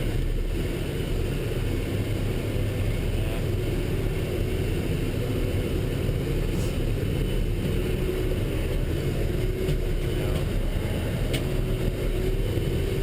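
Military truck's engine and road noise heard from inside the moving vehicle: a steady low rumble with a faint wavering whine.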